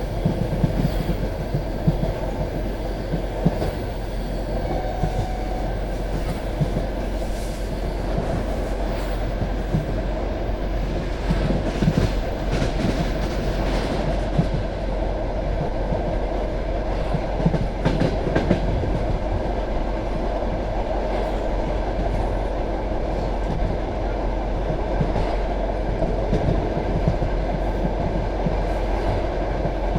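Passenger railway carriage running at speed, heard from a train window: a steady rumble of wheels on rails with irregular clickety-clack knocks over rail joints, louder clusters of knocks about twelve and eighteen seconds in.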